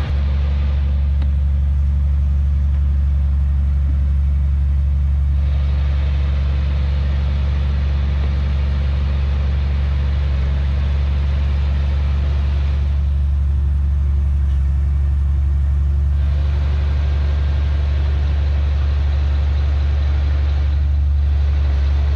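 Heavy diesel engine of earthmoving machinery running steadily at a constant speed, with a strong low hum that holds the same pitch throughout.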